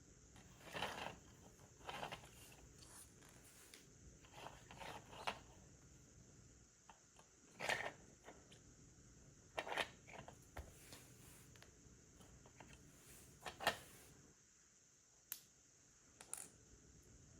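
Lego bricks being handled and pressed together: scattered short clicks and brief rustles, a second or a few seconds apart.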